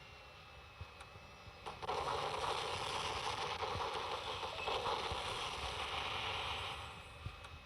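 Fighter jet engine noise: a faint whine, then a loud steady rushing roar that starts abruptly about two seconds in and drops away near the end.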